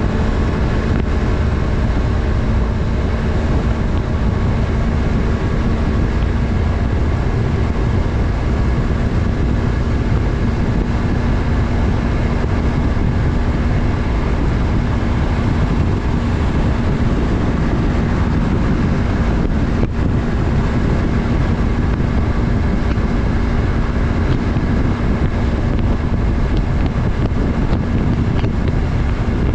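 Yamaha MT-03's parallel-twin engine running at a steady pitch while cruising, with wind noise on the microphone.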